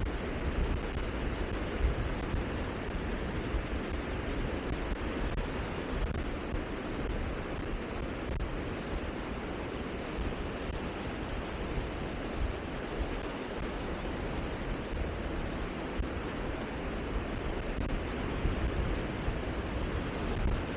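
Steady rushing outdoor noise with an irregular low rumble, like wind buffeting the microphone.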